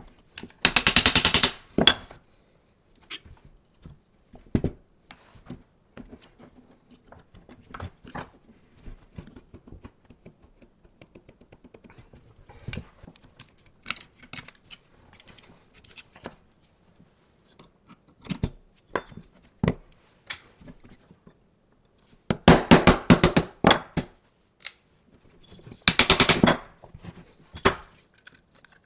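Hand-tool work on a workbench: scattered light knocks and taps of metal parts. Three bursts of rapid, evenly spaced clicks stand out, the loudest about a second in and two more past twenty seconds.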